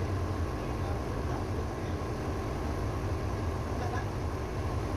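Ship's auxiliary engine running steadily, a continuous low rumble with no change in speed.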